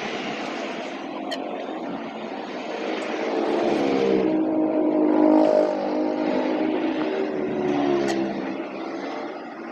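A motor vehicle engine running, its pitch rising and falling, loudest about halfway through.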